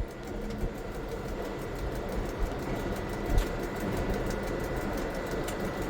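Diesel locomotive engine running steadily at low power as the locomotive creeps forward while being shunted, with a faint steady whine and a low thump about three and a half seconds in.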